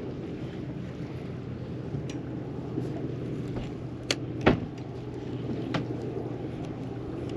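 Boat engine idling with a steady low hum. Two sharp knocks about four seconds in, the second louder.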